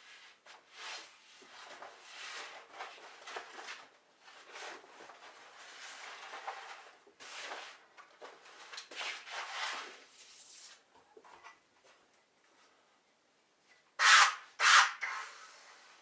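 Repeated rubbing and scraping strokes of a hand tool on a surface, irregular and each under a second long, with a pause and then two much louder strokes near the end.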